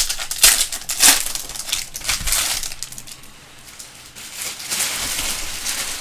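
Plastic wrap and cardboard being torn and crinkled by hand as a basketball card blaster box is opened, with a few sharp snaps in the first second and then stretches of rustling.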